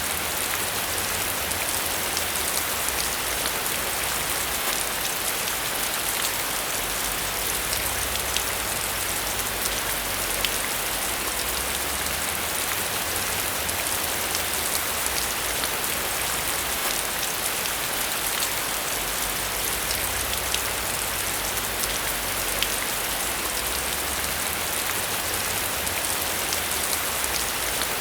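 Steady rain falling and pattering on a surface, with many small individual drop ticks and no change in intensity.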